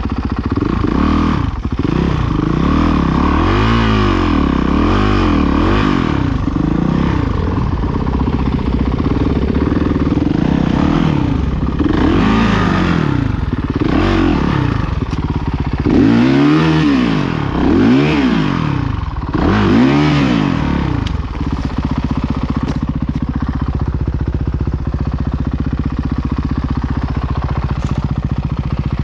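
Honda CRF450R's single-cylinder four-stroke engine revving up and down in quick throttle blips, about one a second, then settling to a steady idle about two-thirds of the way through.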